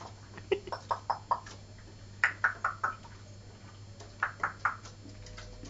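African grey parrot giving three quick runs of short, sharp calls, five notes, then four, then three.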